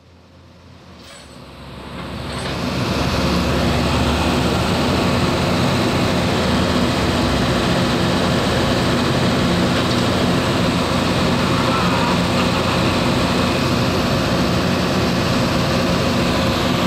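Car engine running loud and steady at an even pitch, fading in over the first few seconds.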